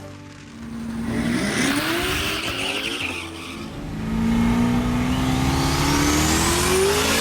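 Twin-turbo Hellcat V8 accelerating hard in two pulls, its engine pitch climbing each time. A high whistle rises with the second pull.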